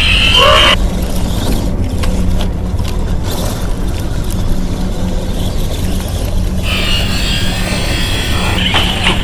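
Quad bike running steadily with a low drone. A brighter, higher noise rides over it in the first second and comes back about two-thirds of the way in.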